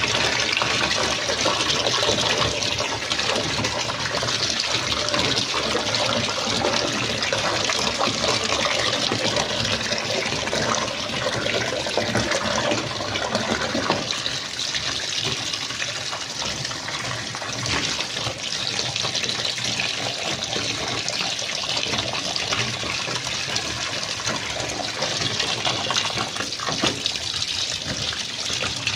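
Water gushing steadily from a tap into a twin-tub washing machine's tub as it fills. About halfway through, the flow sounds lighter.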